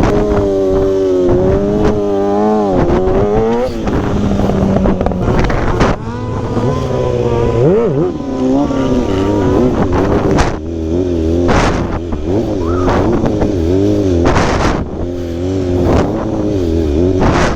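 Sportbike engine revving up and down over and over as the throttle is worked, with gusts of wind buffeting the microphone now and then.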